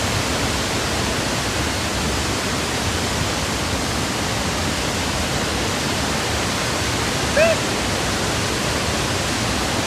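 Victoria Falls' falling water, a steady, dense rush. About seven and a half seconds in, a single short call rises and falls over it.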